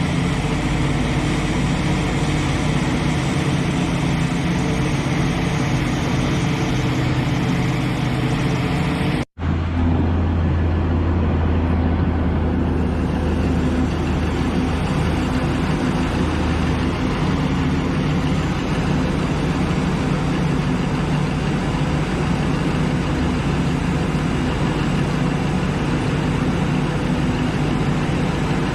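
Diesel engine of a Liebherr excavator running steadily. It cuts out completely for a moment about nine seconds in, then carries on with a stronger low hum.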